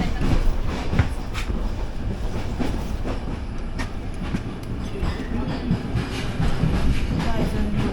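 Passenger train carriage running along the track: a heavy, steady rumble of wheels and car body, with scattered sharp clattering knocks from the rails.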